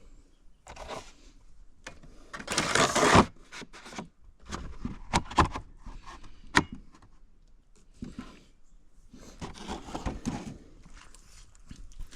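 Handling noise from a chainsaw being put away: irregular scrapes and rustles with a few sharp clicks, and a louder scraping rush about two and a half seconds in.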